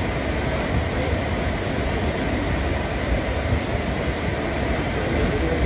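Passenger train running at speed, heard from inside an ICF coach: a steady noise of wheels on rails.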